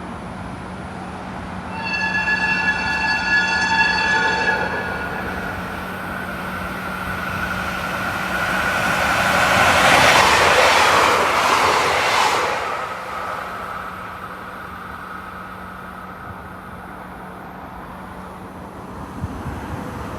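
A train sounds a pitched horn for about three seconds, then passes with a rushing noise of wheels and running gear that swells to its loudest about halfway through and fades away.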